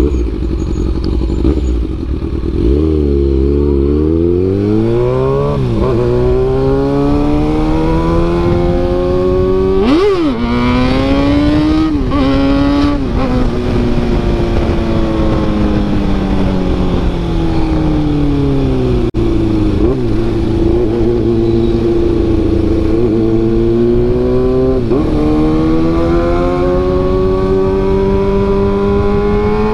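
Kawasaki ZX-6R inline-four engine through an SC-Project CRT carbon-sleeved exhaust while riding. It pulls up through the gears with a sharp drop in pitch at each shift, eases off with the revs falling, then builds again.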